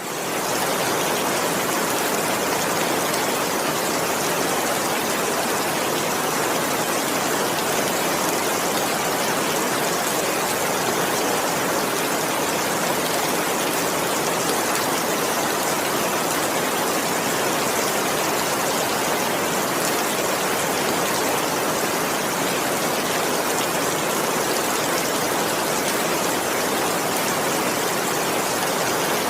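Heavy rain falling steadily: an even, dense hiss of rain that swells in at the start and holds level throughout, with no thunder.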